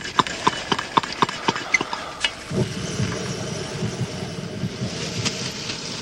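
Camp cooking: a quick run of clicks, about four a second, stops about two seconds in. A steady low rush with a faint hiss follows, like a camp stove under a frying pan.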